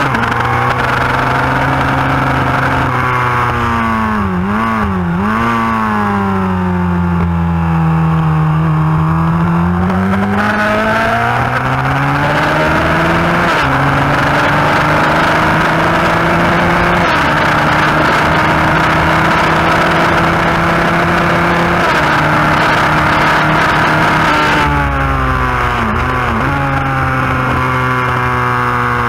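Yamaha FZR1000's inline-four engine running hard at racing speed, heard from on the bike, with a steady rush of wind. The engine pitch wavers and dips a few seconds in and again near the end, and climbs slowly through the middle.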